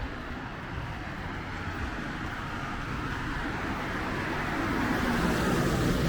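Street traffic: a vehicle approaching on a wet road, its tyre hiss and engine rumble growing steadily louder toward the end.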